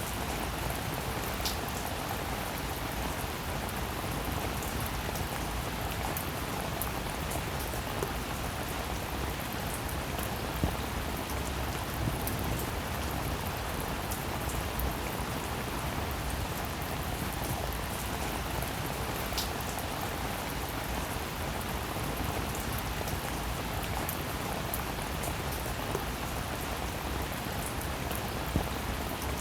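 Steady rainfall, an even wash of patter, with scattered louder single drop hits standing out here and there.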